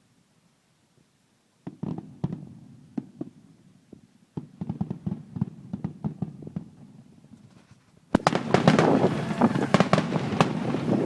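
Fireworks crackling and popping in rapid, uneven strings of sharp reports. They begin after a second or two of near quiet and grow much louder and denser about eight seconds in.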